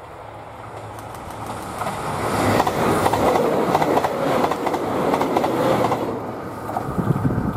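JR Shikoku 2700 series diesel express train passing close by: the engine noise and the wheels clacking over the rail joints build to a peak, then fade quickly as the train goes by about six seconds in.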